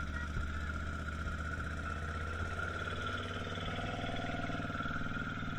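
ATV (quad bike) engine running at low, steady revs, its pitch climbing a little about three seconds in, with a steady high whine over it.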